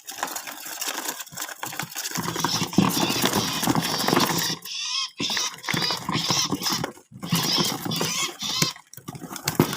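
Small live birds scrabbling and fluttering against the inside of a cardboard box as it is handled and opened, with scratching and light knocks against the cardboard.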